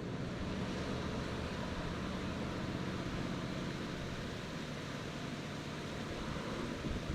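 River running high after heavy rain: a steady, even rush of water.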